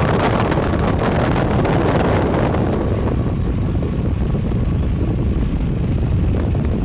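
Loud, steady wind buffeting on the microphone and rumble from a vehicle pacing a freight train, with the train's running noise mixed in. A thin steady whine stops about a second in.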